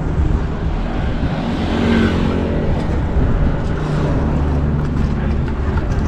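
Street traffic noise heard from a moving bicycle, a steady rumble with a vehicle swelling past about two seconds in.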